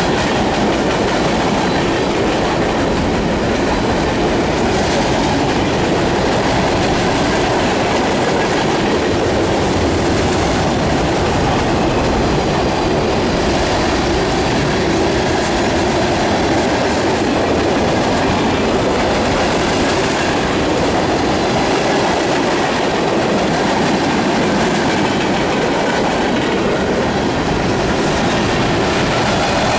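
Freight train cars rolling past at steady speed, a continuous rumble of steel wheels on the rail with clickety-clack from the rail joints.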